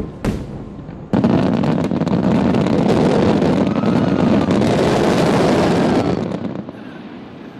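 Star mine fireworks barrage: two sharp shell bursts, then about a second in a dense run of overlapping bursts that merges into a continuous rumble with crackling, fading out after about six seconds.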